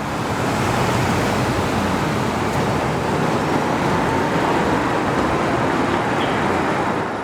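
Steady car and road noise, with a faint rising whine through the middle.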